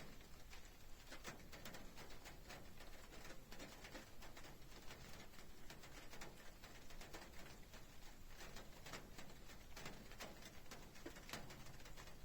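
Rain during a thunderstorm, with drops tapping irregularly on a nearby surface over a steady low hiss.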